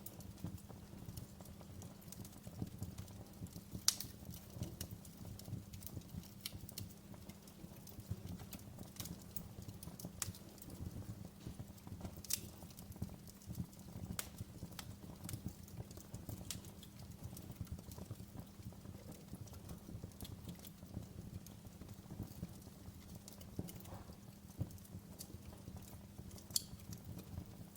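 Wood fire crackling in a fireplace: irregular sharp pops and snaps over a low, steady rumble of the flames, with a louder pop about four seconds in and another near the end.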